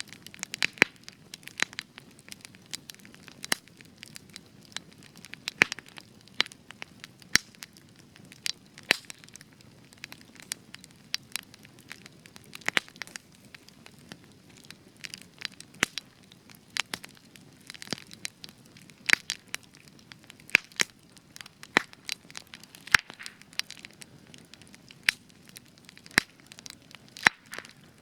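Spruce-wood campfire crackling, with sharp irregular pops and snaps several times a second over a low steady hiss of burning.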